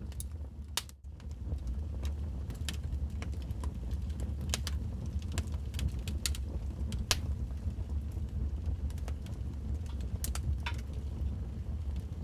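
Wood fire burning in a fireplace: sharp, irregular crackles and pops over a steady low rumble. The sound drops out briefly about a second in.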